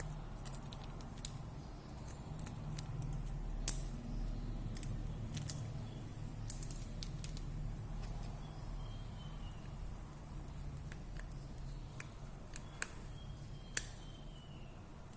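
Small, sharp clicks and taps of handwork on a phone, scattered irregularly over a steady low hum; one click about a third of the way in and another near the end are the loudest.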